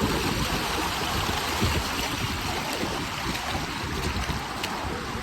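River rapids rushing in a steady roar of water, with wind buffeting the microphone in low, uneven gusts.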